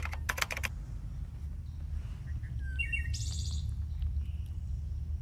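Small birds chirping outdoors: a few short high calls and a quick trill about three seconds in, over a steady low background rumble. A run of keyboard-typing clicks, a sound effect for on-screen text, ends about half a second in.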